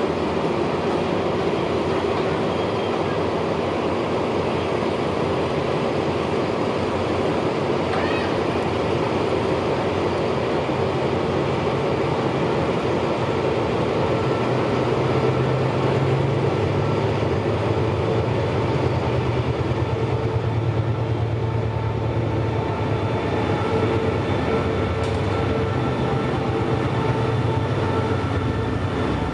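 Diesel-hauled passenger train running through the station: a steady rumble of carriages on the rails. A low engine drone grows stronger from about halfway through.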